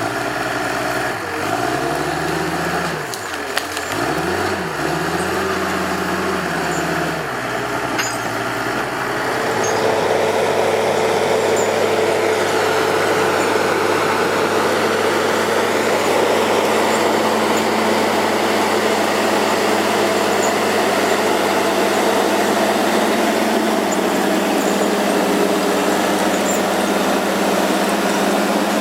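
Heavy diesel engine of a logging machine (a skidder or bulldozer) revving up and down repeatedly for about nine seconds, then settling into a steady, louder run at constant revs.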